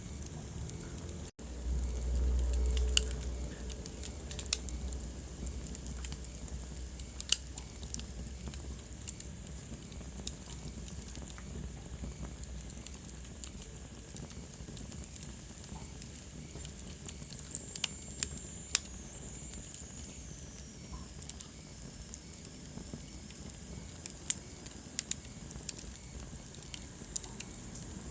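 Wood fire burning in a fireplace: a steady hiss with scattered sharp crackles and pops. There is a low rumble for a couple of seconds near the start, and a faint falling whistle around the middle.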